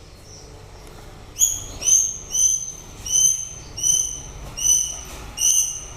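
White-rumped shama singing: a series of short, clear whistled notes repeated about twice a second, starting about a second and a half in.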